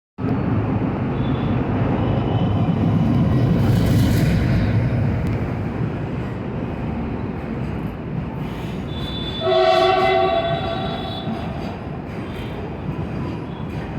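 Metro train running with a steady rumble, loudest in the first few seconds and easing after, and its horn sounding once for about a second near ten seconds in.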